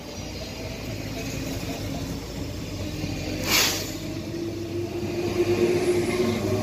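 Z2N double-deck electric commuter train passing at speed: a steady rolling rumble with a short hiss about three and a half seconds in, then an electric traction-motor hum building near the end as the motor car comes past.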